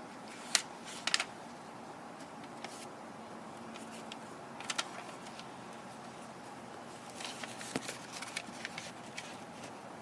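A sheet of origami paper being folded and creased by hand: scattered short crinkles and taps, with a run of them about three quarters of the way through, over a faint steady hiss.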